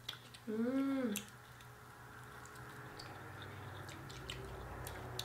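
People chewing chicken wings and fries, with scattered wet mouth clicks and smacks. About half a second in, a brief vocal sound that rises and falls in pitch is the loudest thing heard.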